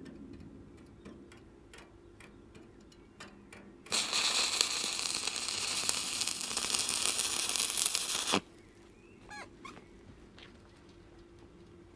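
Stick welder arc crackling as a welding rod burns, struck about four seconds in and cut off abruptly some four and a half seconds later. Before it there are a few faint ticks.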